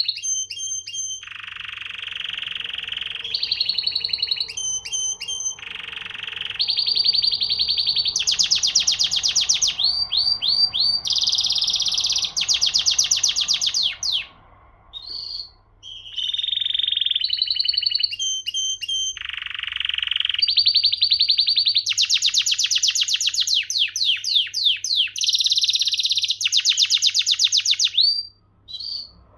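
Domestic canary singing a long song made of phrases of rapidly repeated notes, high trills alternating with lower buzzy rolls, each phrase lasting a second or two. The song pauses briefly about halfway through and again near the end.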